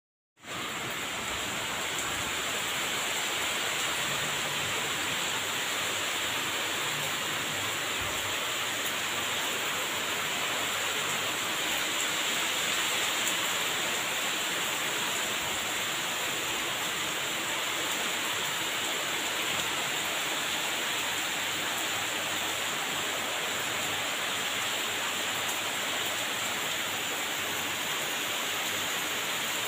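Heavy rain pouring steadily on trees and wet ground, an even hiss.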